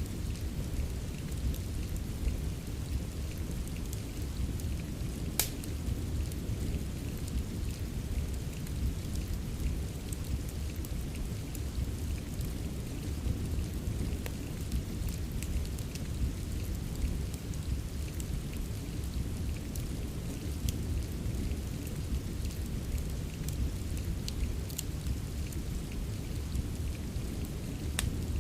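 Steady rain mixed with a crackling fireplace: a constant, bass-heavy rush of rain with small pops and crackles scattered through it, and one sharper pop about five seconds in.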